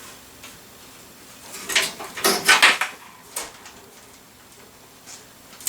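Rustling and clattering of cables and small parts being handled, in a burst between about one and a half and three seconds in, with one more short clatter just after.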